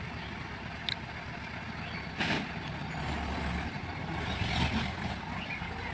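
Heavy diesel machinery running steadily as an excavator loads mud into a tractor trolley. A sharp knock comes about a second in and another about two seconds in, and the engine note swells briefly a little after three seconds and again near four and a half.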